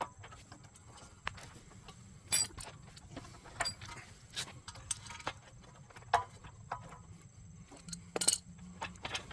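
Scattered small clicks and taps of hands working a rubber fuel hose and inline shutoff valve onto a small-engine carburetor fitting, about half a dozen, with the sharpest near the end.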